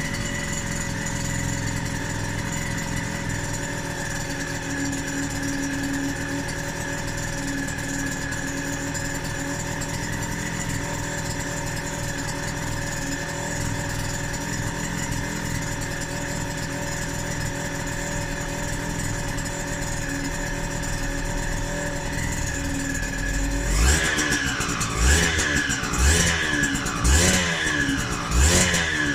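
Yamaha DT125R's single-cylinder two-stroke engine idling steadily, freshly rebuilt with its power valve fitted. About 24 seconds in it is blipped, revving up and dropping back five or six times in quick succession.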